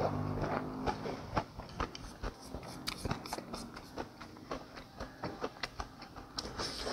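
Close-miked chewing of beef rice noodles: a steady run of small wet mouth clicks, several a second, with no slurping.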